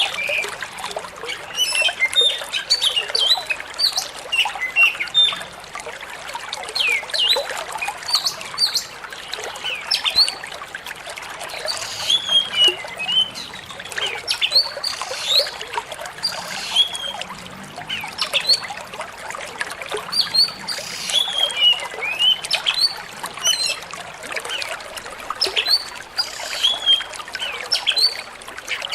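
Oriental magpie-robin (kacer) singing a continuous run of short chirps and whistles over the steady trickle of flowing water.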